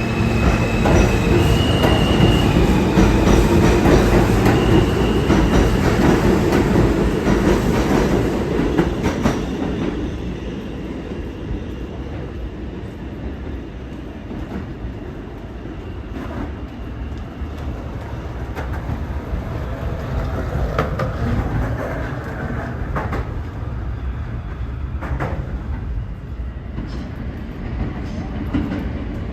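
R160 subway train pulling out, its propulsion motors giving off pitched tones that step upward in the first few seconds over the rumble and clatter of wheels on the rails. The sound is loudest for the first third, then fades to a lower rumble with scattered clicks, and grows louder again near the end.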